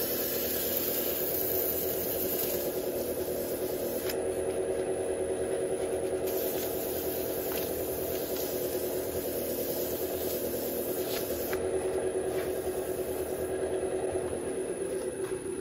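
Wood lathe spinning a burl with steady rubbing and scraping against the turning wood; the lathe's hum begins to drop in pitch right at the end as it winds down.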